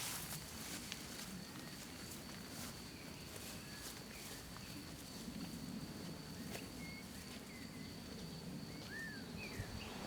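Faint countryside ambience: a steady high-pitched insect trill, with a few short bird chirps, one of them clear about nine seconds in, and light rustling.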